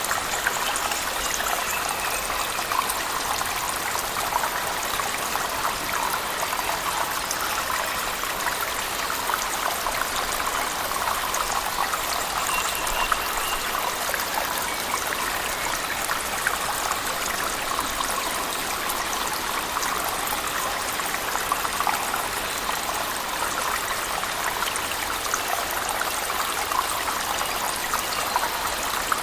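Steady splashing of a waterfall in a cave mixed with heavy rain.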